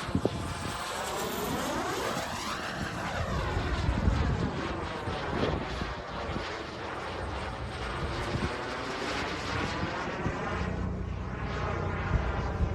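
JetCat P300-Pro turbine of a BVM Desperado RC jet running in flight, its sound sweeping up and down in pitch several times as the jet makes passes.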